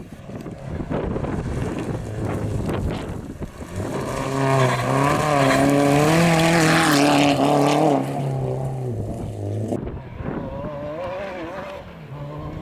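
A competition rally vehicle's engine comes up loud and passes close on a dirt stage. Its note wavers with throttle as it goes by, then falls away, and a fainter engine carries on near the end. Wind buffets the microphone before it arrives.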